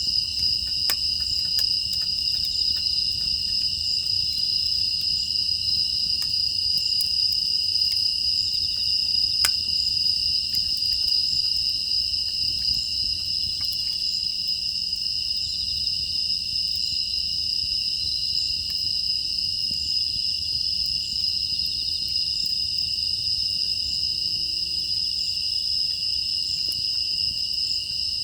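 Steady chorus of grass insects (crickets) chirring on two high pitches, with scattered faint crackles and pops from a wood fire.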